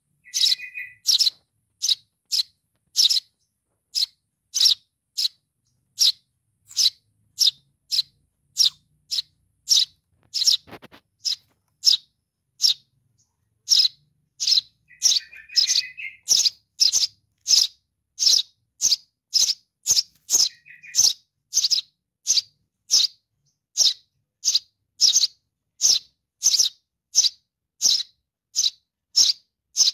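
Sparrow chick (Eurasian tree sparrow) begging for its parent: a short, high chirp repeated steadily about twice a second, with a few lower, warbling calls mixed in.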